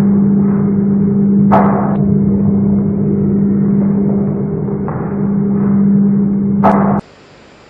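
A loud, steady low drone with two brief sharp noises, one about a second and a half in and one near the end, then it cuts off suddenly to quiet room sound.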